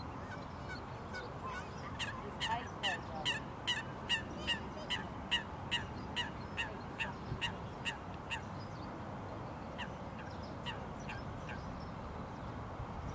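A water bird calling in a rapid series of short, honking calls, about two or three a second, for several seconds, then a few scattered calls before it stops.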